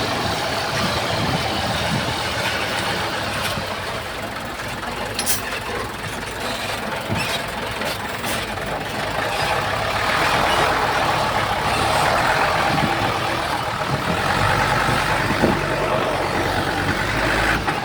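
Heavy diesel earthmoving machine running, with a few sharp clanks. A deeper engine rumble builds up about two-thirds of the way through.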